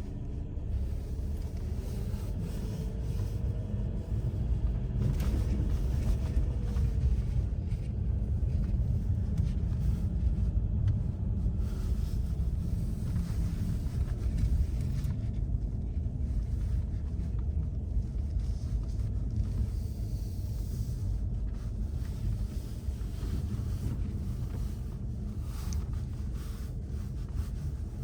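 Steady low rumble of a motor vehicle, even in level throughout, with a faint rising-and-falling tone a few seconds in.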